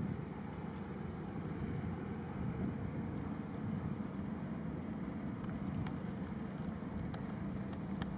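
Boat engine running at a steady drone, heard from aboard, with wind and water noise over it.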